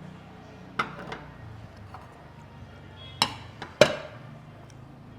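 Dishes and cutlery clinking and knocking on a table during a meal: four sharp clatters, the loudest two close together a little past the middle, over a steady low background hum.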